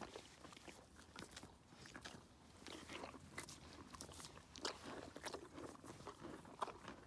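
Animals crunching and chewing pieces of carrot: faint, irregular crunches.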